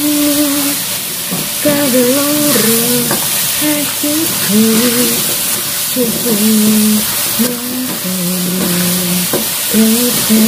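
Chicken pieces and potato chunks sizzling in a non-stick wok, dry-fried without added oil so the chicken's own fat renders out, and stirred and tossed with a spatula. A simple melody of held, stepping notes runs over the frying throughout.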